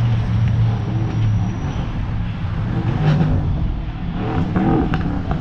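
Road traffic: a car's engine running close by, with a steady low hum that fades about two seconds in over a constant rumble of road noise.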